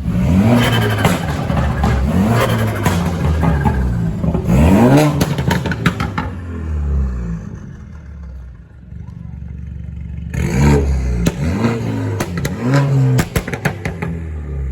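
Car engine with its active exhaust open, revved in repeated quick blips that rise and fall in pitch, with sharp pops and crackles. Two bursts of revving with a calmer idle stretch between them, about halfway through.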